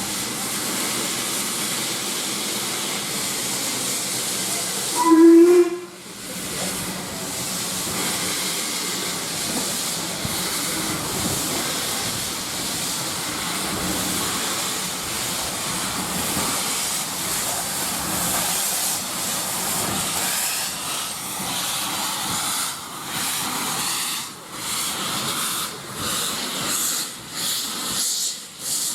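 Steam locomotive hissing steadily, with one short, loud whistle toot about five seconds in. Over the last several seconds the sound turns uneven and pulsing.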